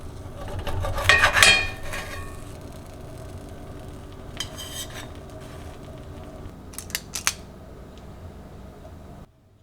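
Small hard objects, glass or metal, clinking as they are handled, several strikes ringing briefly, over a steady low hum; the sound cuts off abruptly near the end.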